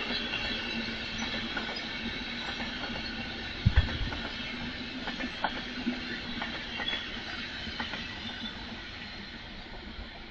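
A train running past on the track: steady rolling noise with scattered wheel clicks and a couple of heavier knocks about four seconds in, slowly fading toward the end.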